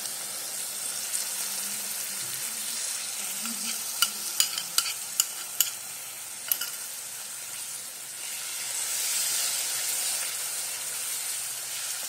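Tomato puree frying in hot oil in a kadhai with a steady sizzle, stirred with a wooden spatula. About four seconds in comes a quick run of about six sharp taps, and the sizzle swells near the end.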